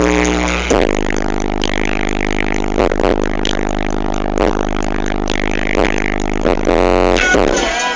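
Bass-heavy music played loud through a car audio system, its low notes held and changing in steps.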